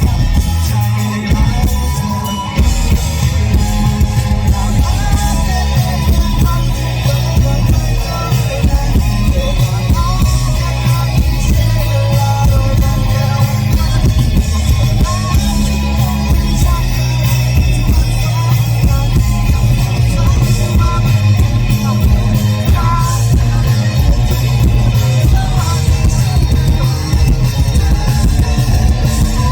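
Live rock band playing loudly through a concert PA, with drums, bass, electric guitar and singing.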